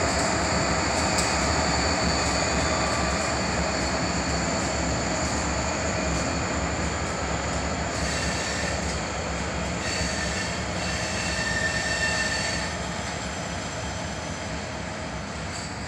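Train rolling across a railroad overpass: a steady, loud rumble of wheels on rail with thin high-pitched wheel squeal over it. It slowly fades as the last cars pass, dropping off noticeably about two-thirds of the way through.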